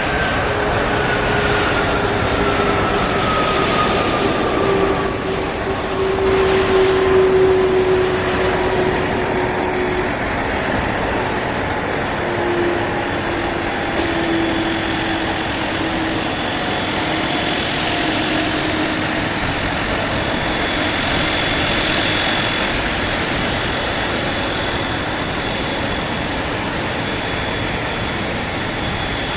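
Boeing 767-300ER jet engines running with a loud, steady rush as the airliner comes in to land, with an engine whine whose pitch slides slowly downward as it passes, loudest about seven seconds in.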